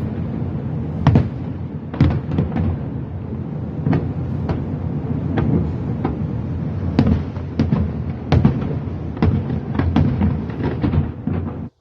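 Fireworks going off: a rapid, irregular series of sharp bangs and crackles over a continuous low rumble, cutting off suddenly near the end.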